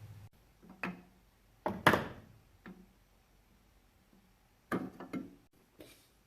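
A low hum cuts off just after the start, then a series of sharp knocks and clunks of hard objects being handled, about five in all, the loudest about two seconds in.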